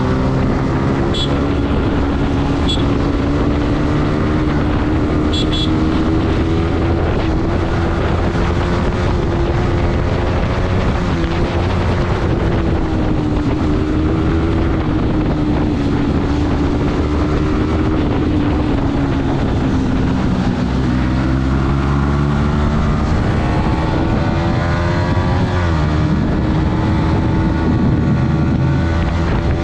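Yamaha MT-15's single-cylinder engine running steadily under way. Its pitch dips twice in the second half as the rider backs off, then climbs again.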